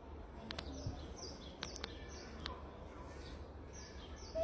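Small bird chirping: short, high, falling chirps repeated steadily, over faint outdoor background noise. A few light clicks fall in the first two seconds, and a brief louder squeak or voice comes right at the end.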